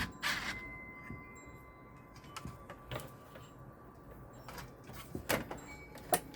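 Scattered light clicks and taps from handling ceiling fan blade hardware, over a faint steady ringing tone.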